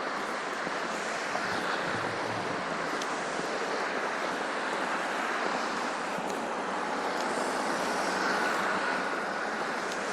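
Steady rushing outdoor street noise on a snow-covered city street, with no distinct events.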